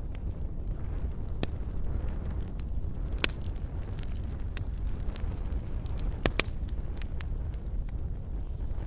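Wood fire burning in a fireplace: a steady low rumble of flames with scattered sharp crackles and pops, the loudest about three and six seconds in.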